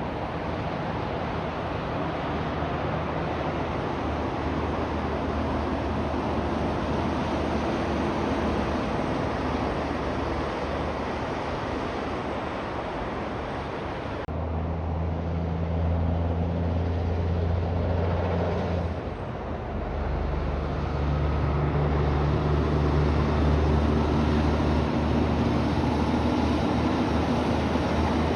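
Heavy diesel trucks passing on a road. Steady tyre and traffic noise comes first; about halfway through, a deep, steady diesel engine drone takes over, dips briefly, and comes back stronger.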